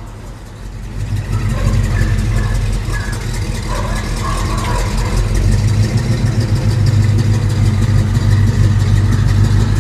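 Vehicle engine idling with a steady low rumble that grows louder from about a second in and then holds.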